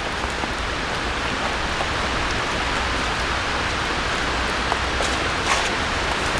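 Steady rain falling on a BUNDOK Solo Base EX tent, an even hiss of rain with a few single louder drops.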